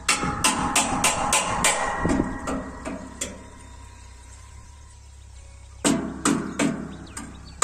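Rapid, evenly spaced sharp knocks, about three a second, in two runs separated by a pause of a few seconds, over a steady low hum.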